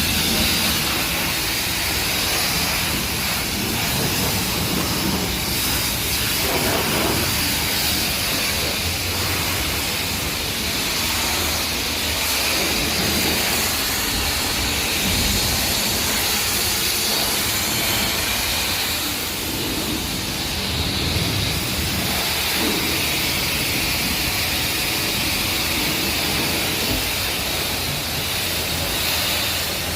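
Steady hissing spray of water washing a car, running without a break, with a low rumble underneath.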